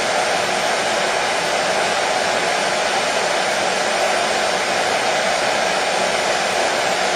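Hair dryer running steadily with a constant rushing blow of air and motor hum.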